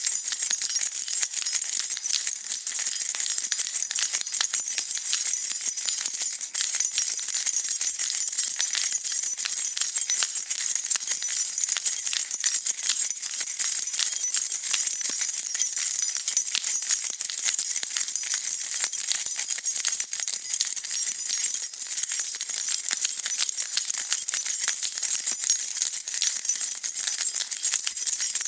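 A bunch of metal keys shaken steadily, jingling and clinking together in a dense, unbroken rattle.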